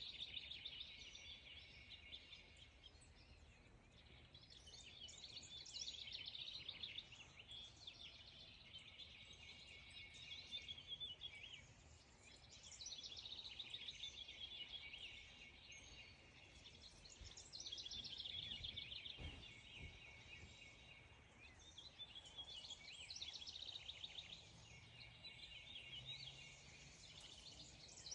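Faint birdsong: rapid, high trilling phrases a few seconds long, repeating again and again with short pauses between them.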